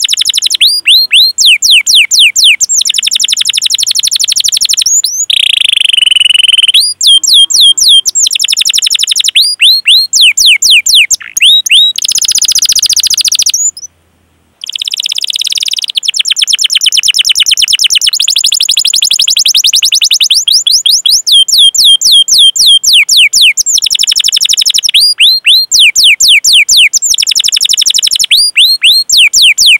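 Domestic canary singing loudly: series of sharp 'cuit cuit' chirps that sweep down in pitch, alternating with long, very fast rolling trills. The song breaks off briefly about halfway through.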